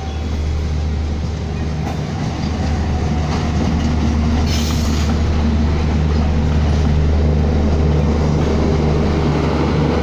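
An Indian Railways diesel locomotive passing close by at a level crossing, its engine giving a steady deep drone that grows louder over the first few seconds, followed by passenger coaches rolling past. There is a short hiss about four and a half seconds in.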